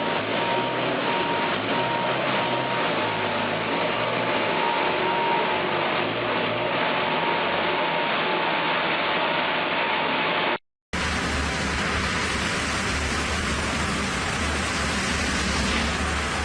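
Sawmill machinery running with a steady, noisy din and a faint high whine; about ten seconds in it cuts off abruptly and a different steady machine noise with a deep hum takes over.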